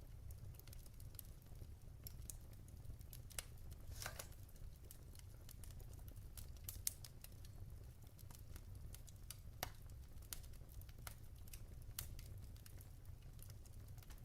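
Wood fire in a fireplace, faintly crackling: scattered snaps and pops from the burning logs over a steady low rumble, with two sharper pops about seven and nine and a half seconds in.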